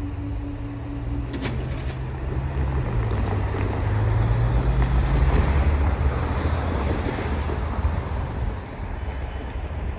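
Class 158 diesel multiple unit passing over the level crossing: a deep engine rumble with rushing wheel and air noise that builds to its loudest around the middle and then eases off. A steady tone cuts off with a click about a second in.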